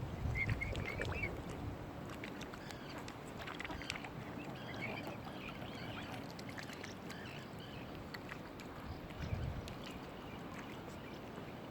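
Mute swan cygnets peeping: short high calls about a second in and again around five seconds, over a steady hiss of outdoor water and air, with a brief low rumble near the end.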